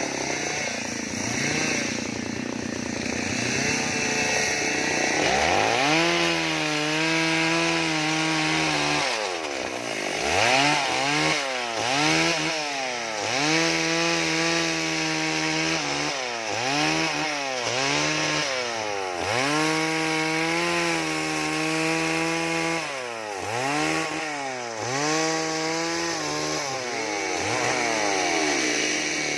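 Two-stroke chainsaw revving up and down over and over, held at full speed for a few seconds at a time between quick drops in pitch, as it carves wood.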